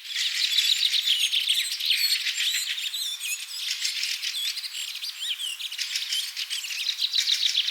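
A dense chorus of many small birds chirping and chattering over one another, a continuous mass of short high chirps.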